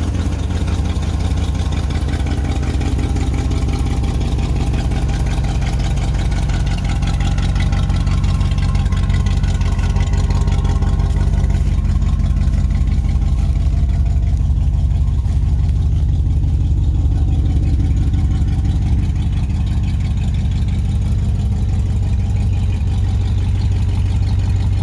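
1963 Ford F250's engine idling steadily, still warming up after a cold start.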